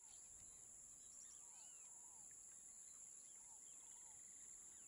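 Faint outdoor ambience: birds chirping in short, arched calls that come in small clusters, over a steady high-pitched whine.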